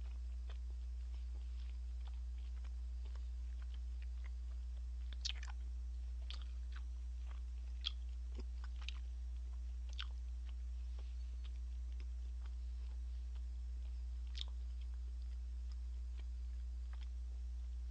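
A person chewing a mouthful of steak, with scattered soft mouth clicks and a handful of louder ones, over a steady low hum.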